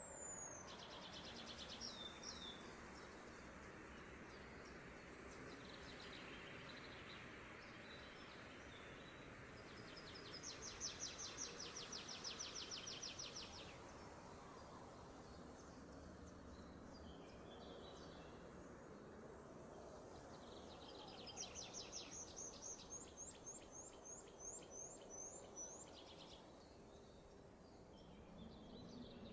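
Faint outdoor ambience with birds singing: a rapid high trill lasting about three seconds, starting some ten seconds in, and a run of repeated high, falling notes for about five seconds after the twenty-second mark, over a steady background hiss.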